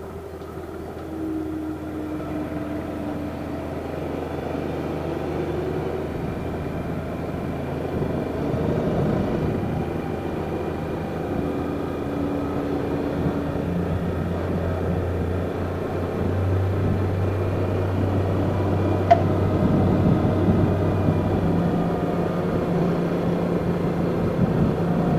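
Yamaha Jupiter Z's small four-stroke single-cylinder engine running under way, its pitch rising and falling with the throttle. There is one sharp click about three-quarters of the way through.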